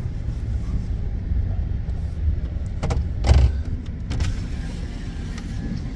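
Plow truck's engine running with a steady low rumble, with a couple of short knocks about three seconds in.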